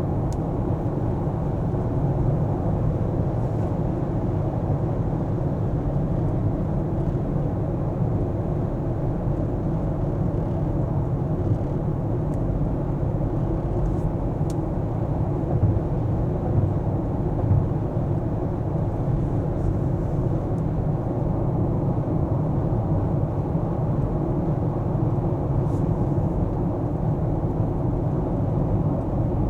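Steady low rumble of a car on the move: tyre and engine noise with no change in pace.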